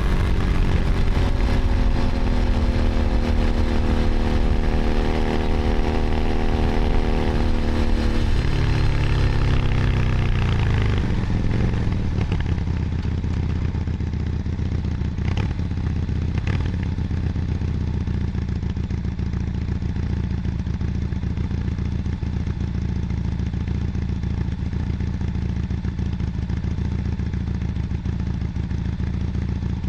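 Keeway SCR 250V motorcycle's V-twin engine under way at steady revs, its note falling about eight seconds in as the bike slows, then settling into a steady low drone.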